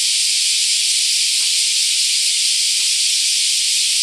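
Dense chorus of cicadas singing: a loud, steady, high-pitched shrill drone with no break.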